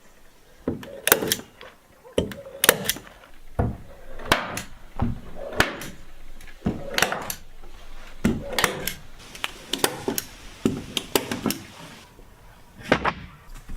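Wooden knocks and clatter from hand work with timber: many sharp knocks at an uneven pace, with a few short scrapes between them.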